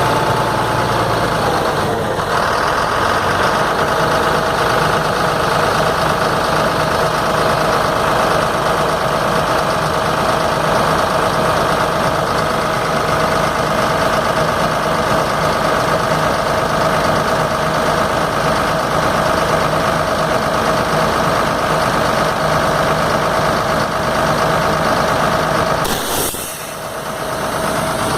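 Truck engine idling steadily while its air-brake system runs through an AD9 air dryer whose clogged filter no longer absorbs water. A short sharp burst comes near the end, and the sound briefly drops after it.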